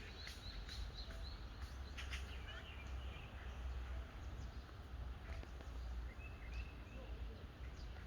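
Wild birds calling: short runs of quick, high repeated notes a few times, over a steady low rumble of background noise.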